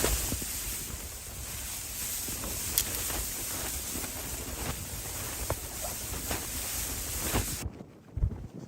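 Strong wind rushing and buffeting the microphone in a snowstorm, with faint scattered clicks. It cuts off abruptly near the end, leaving a much quieter stretch with a few low thumps.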